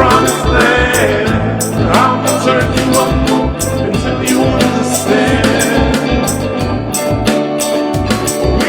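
A band jamming: drums keeping a steady beat with cymbal hits under sustained instrument notes, and a voice singing without clear words.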